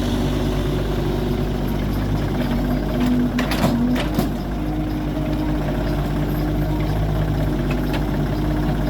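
Machine engine running steadily, with a few short knocks about three and a half to four seconds in.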